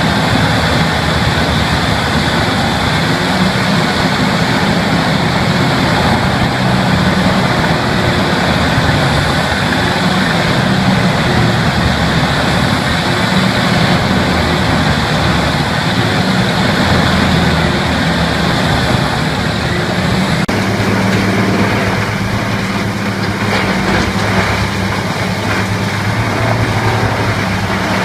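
Heavy machine engine running steadily and loudly. The sound changes abruptly about twenty seconds in to a different engine note.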